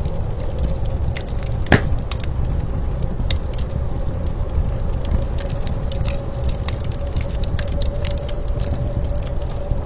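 Wood fire crackling with many small pops and one louder pop about two seconds in, over a steady low rumble of blizzard wind.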